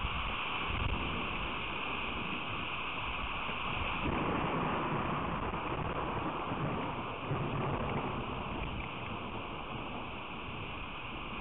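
Rain storm: steady hiss of heavy rain falling, with louder low-pitched stretches about four and seven seconds in.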